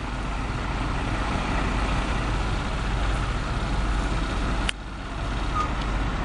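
Heavy tractor-trailer engine rumble and road noise, building over the first couple of seconds and then holding steady. A sharp click comes about four and a half seconds in, with a brief drop in level.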